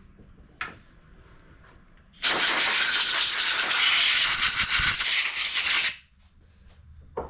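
A light click, then a pressurised jet hissing steadily for about four seconds as the carburetor's passages are blasted clean, and it cuts off sharply.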